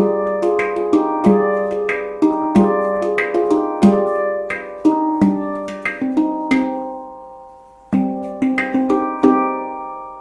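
Meraki handpan tuned to an Arabic-flavoured scale (G / C D Eb F G Ab B C D), played by hand: a flowing run of struck notes ringing into one another over a recurring low central note. The playing pauses and lets the notes die away about two-thirds in, starts again with a firm low strike, then fades out toward the end.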